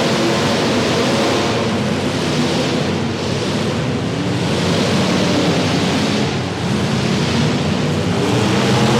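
Several demolition derby cars' engines running and revving together, loud and continuous, with a dense rush of exhaust noise over the engine tones.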